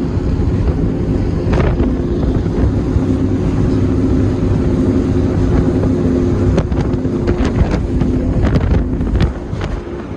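Offshore performance powerboat engines running steadily at speed, a deep rumble with a held engine tone, with wind buffeting the microphone.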